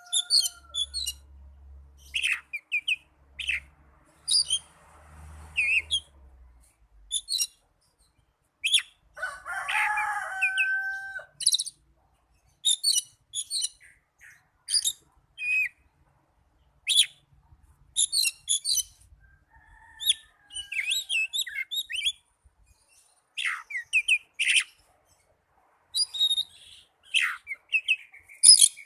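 Oriental magpie-robin (kacer) singing: short bursts of sharp, varied high chirps and trills every second or so, with lower whistled notes about ten seconds in and again about twenty seconds in.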